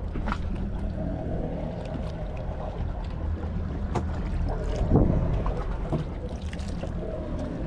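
A fishing boat's engine runs with a steady low drone, with a few light clicks and a louder knock about five seconds in.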